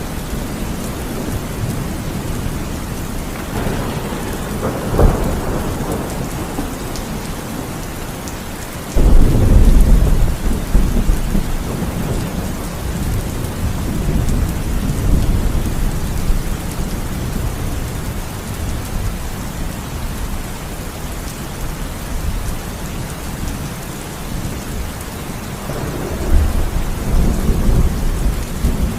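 Thunderstorm: steady heavy rain with thunder, a sharp crack about five seconds in, then a sudden loud rolling rumble about nine seconds in that fades slowly, and another rumble building near the end.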